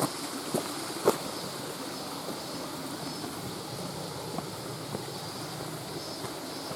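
Steady rushing of a mountain stream, with a few sharp clicks in the first second or so.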